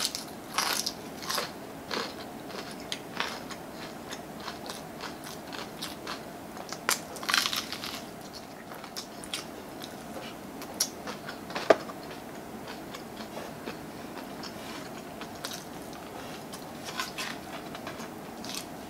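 Close-up crunching and chewing of crispy fried chicken, in irregular bursts, with heavier crunches near the start and about seven seconds in and one sharp click near twelve seconds.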